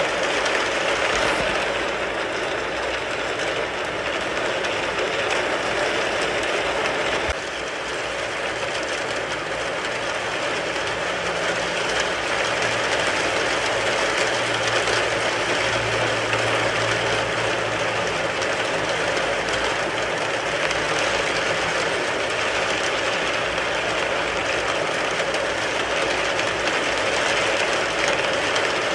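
Steady heavy rain falling on a car's roof and windows, heard from inside the car, with a faint low hum midway through.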